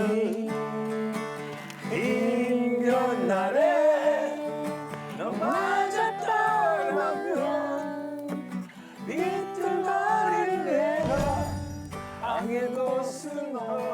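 A voice singing a slow Korean ballad to acoustic guitar, with long held notes that bend in pitch.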